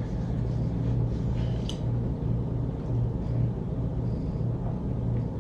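Steady low hum with faint background noise; a small tick about a second and a half in.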